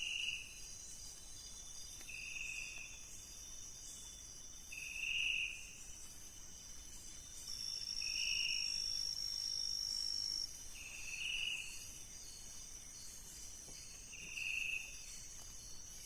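Night-time rainforest insect chorus: a steady, high trilling of crickets and other insects, with a shorter, lower-pitched call repeating about every three seconds. Near the middle one insect whine, louder and higher, is held for about three seconds.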